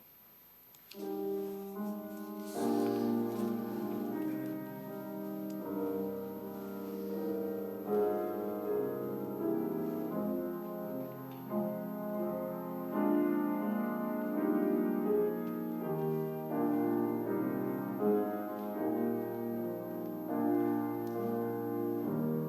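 Keyboard instrument playing a slow, chordal postlude in held notes, starting about a second in after a near-silent pause.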